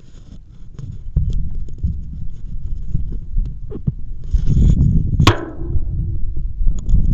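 Rumbling wind and riding noise on a camera microphone during an e-bike ride, with scattered clicks and rattles. About five seconds in comes one sharp sound that quickly falls in pitch, the loudest moment.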